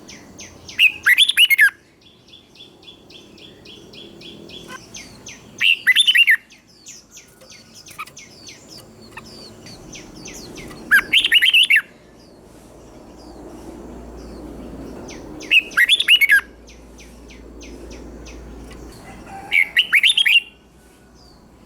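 Red-whiskered bulbul singing: five loud, short song phrases about every four to five seconds, with quieter rapid chirping notes between them.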